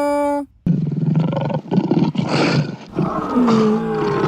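Lion roar, most likely a sound effect for the revealed lion toy. It starts about half a second in as long, rough calls, with a falling call near the end.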